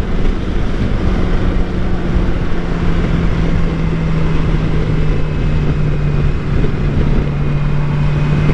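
2013 Suzuki GSX-R 600's inline-four engine running at highway speed, its note sinking slightly as the bike eases off, under a steady rush of wind and road noise.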